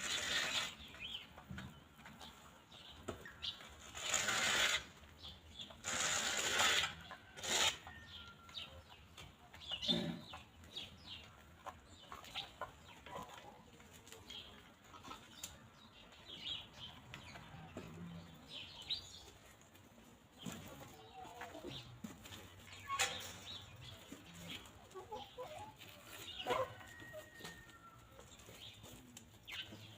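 Free-range hens foraging: scattered soft clucks and short calls over many small pecking and scratching ticks, with four louder rustling bursts in the first eight seconds.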